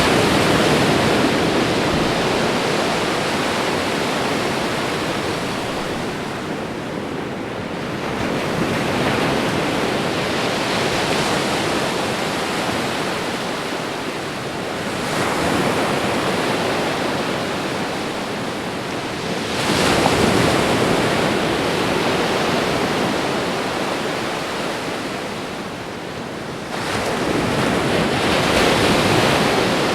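Ocean surf: waves crashing and washing in a dense, continuous rush that swells and ebbs, with a new wave surging in four times.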